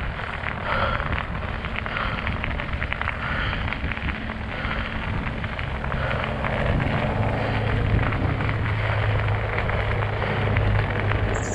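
Fat bike's studded tires crunching and crackling over snow and ice, with wind on the microphone. A low steady hum joins about halfway through.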